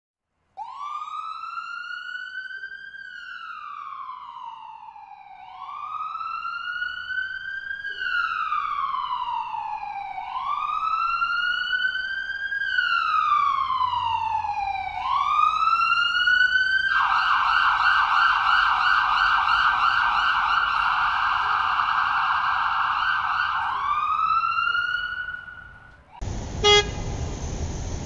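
Emergency-vehicle siren in a slow wail, its pitch rising and falling about every five seconds, switching about two-thirds of the way through to a fast warble, then one more rise before it cuts off. Just before the end a different, noisy sound starts with a sharp click.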